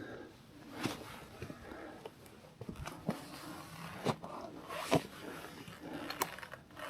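Irregular knocks and scrapes of a hiker's boots stepping down over rock and loose stones, roughly one step a second.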